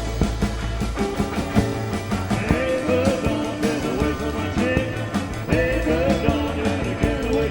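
Rock and roll band music with a steady beat and a singing voice.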